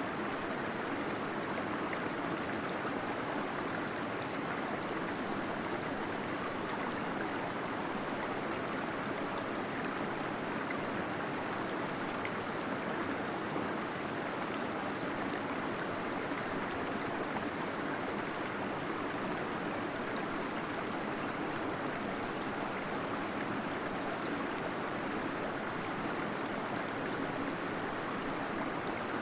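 Small waterfall splashing and gurgling in a steady, unbroken rush of water.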